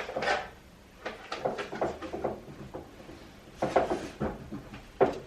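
Household items being set down and shifted on pantry shelves: a string of knocks and clatters, loudest in a cluster a little before four seconds in and in a single sharp knock near the end.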